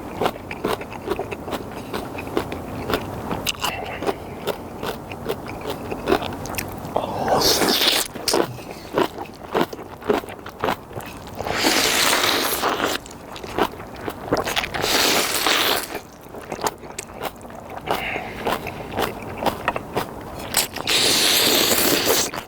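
Close-up eating of instant ramen noodles: steady wet chewing and mouth clicks, broken four times by a long slurp of about a second.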